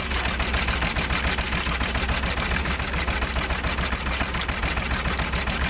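An engine running steadily at close range with a fast, even chugging beat.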